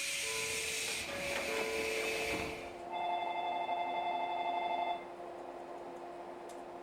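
Hiss of compressed air from the train's pneumatic door gear for the first few seconds, then a steady electronic buzzer tone held for about two seconds, with the carriage's low steady hum under it.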